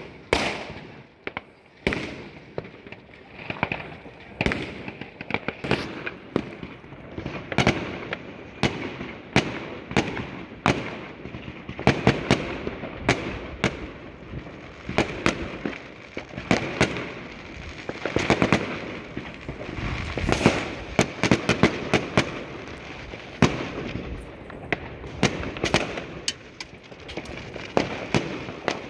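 New Year's Eve fireworks going off continuously: many sharp bangs and firecracker crackling at irregular intervals, several a second at the busiest points, with louder detonations among them.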